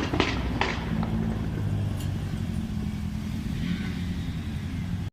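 A car engine running steadily at low revs, with a few sharp cracks in the first half-second.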